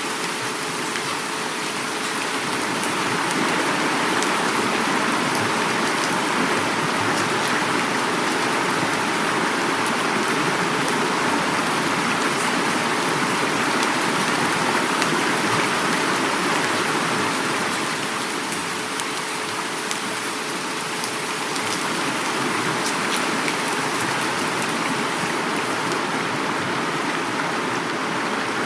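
Heavy rain falling, with fine drops pattering, over the steady rush of flowing river water. It swells a little louder for a stretch mid-way, then eases back.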